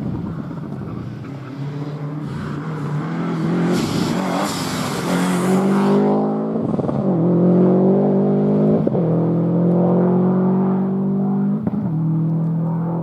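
Four-wheel-drive rally car engine accelerating hard through the gears, its note climbing and breaking at three gear changes in the second half. A spell of hissing noise comes just before the first change.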